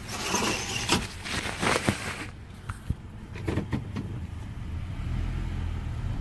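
Car in the cabin: rustling and a few clicks and knocks while the car's engine runs. About five seconds in, a steady low engine hum grows louder as the car moves off.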